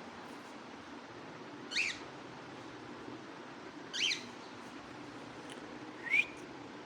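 Pet parrot giving short rising whistled chirps, three of them about two seconds apart.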